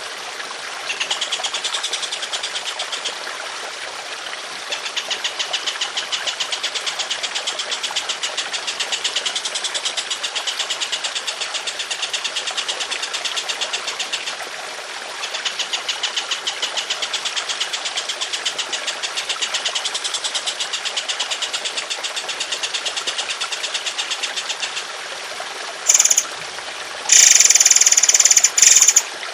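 Songbird giving long, fast rattling trills in three bouts, the longest about ten seconds, over steadily trickling water; near the end a few short, loud, high calls break in.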